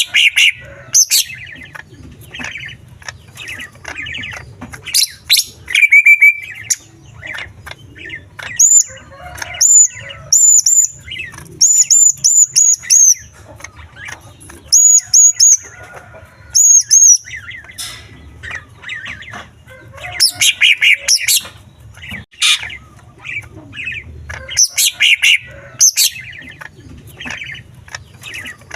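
Male cucak ijo (green leafbird) singing loudly and continuously, a fast stream of chirps and trills mixed with imitations of small birds' songs. Runs of high, clear whistled notes come in the middle.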